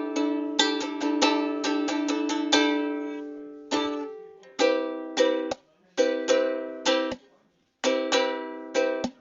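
Solo ukulele strumming chords. A quick run of strums rings together into one chord that is left to fade, then shorter chords follow, each cut off abruptly, with a short silence before the strumming resumes.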